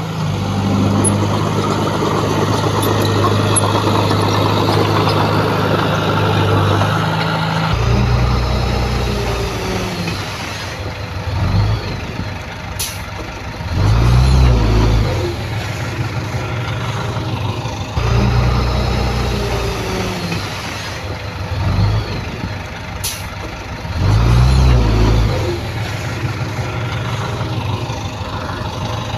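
Heavy diesel earthmoving machinery running: a steady engine drone, then the engine swelling and easing off under work, with two short sharp hisses about ten seconds apart. The stretch from about 8 to 15 seconds is heard again almost exactly from 18 to 25 seconds.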